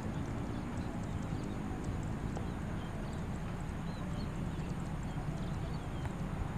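Low, steady rumble of an approaching diesel locomotive and its train.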